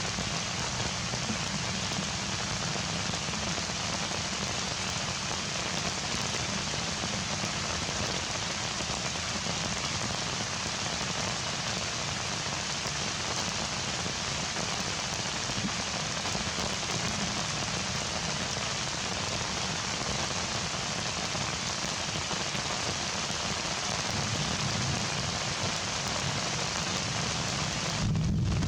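Heavy rain falling steadily, a dense even hiss. A lower rumble joins near the end.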